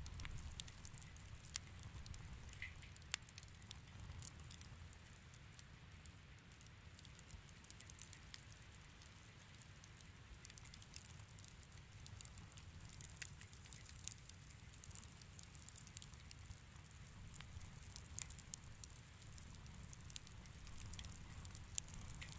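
Wood fire crackling quietly in a fireplace: sparse, irregular pops and snaps over a low steady rumble.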